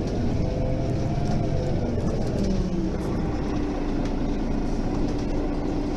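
Mercedes-Benz Citaro facelift city bus under way, its diesel engine and drivetrain running with a steady rumble. Whining tones glide downward in the first half, then a single steady whine holds from about halfway through.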